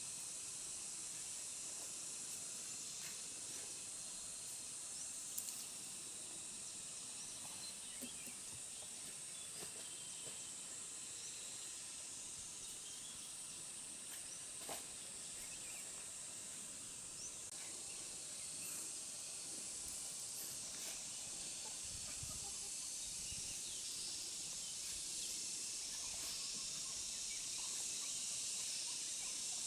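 Steady high-pitched hiss of outdoor ambience, with scattered faint clicks and a brief low rumble a little past the middle.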